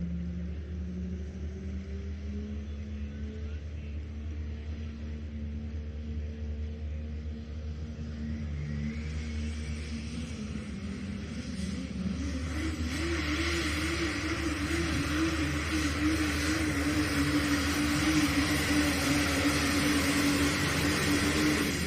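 Engine of a pulling vehicle at a tractor pull running under load. It grows louder through the second half, and its pitch wavers for a moment before holding steady.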